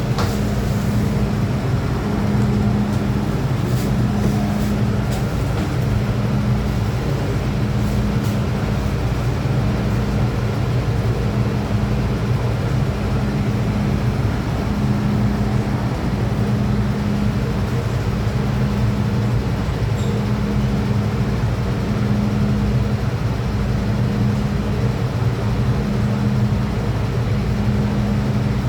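Steady running noise of an MTR M-Train electric multiple unit, with a low hum that pulses on and off about every two seconds over the continuous drone.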